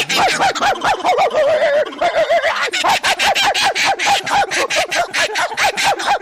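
Laughing kookaburras giving their rolling laugh call, a fast string of rising-and-falling chuckling notes, about four or five a second, with a brief lull a little after two seconds in.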